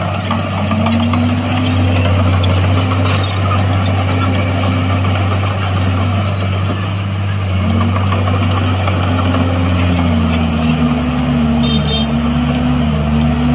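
Diesel engine of heavy earthmoving machinery running under load. Its pitch dips and climbs again several times, more often in the last few seconds, over a steady deep hum and clattering mechanical noise.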